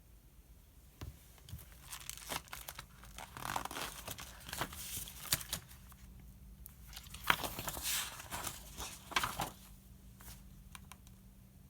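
Paper rustling as book pages are turned and handled, in two bouts of crinkly strokes, the second with a sharper crackle.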